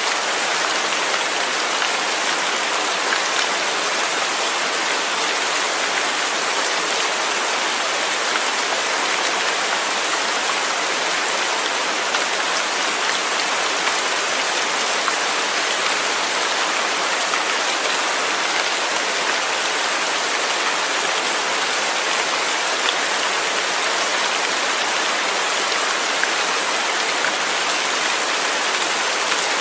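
Steady rain falling, a constant even hiss of many drops with no change in strength.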